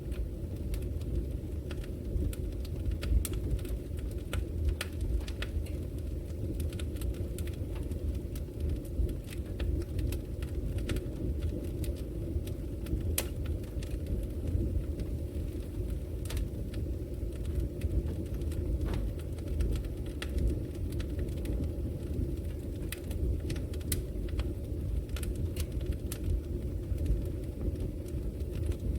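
Logs burning in a wood fireplace: a steady low rush of flames with frequent, irregular sharp crackles and pops.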